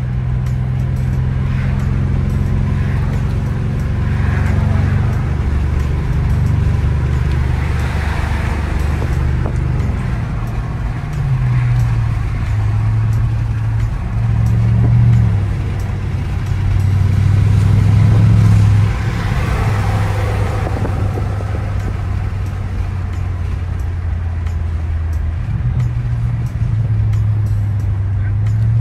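BMW sedan's engine heard from inside the cabin while driving at city speeds: a low, steady drone whose pitch steps up and down a few times with the throttle and gear changes, over tyre and road noise.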